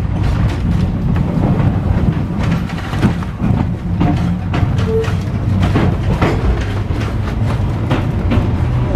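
Ex-Melbourne W2 class electric tram running along its track: a steady low rumble from the running gear, with irregular clicks and clacks from the wheels on the rails.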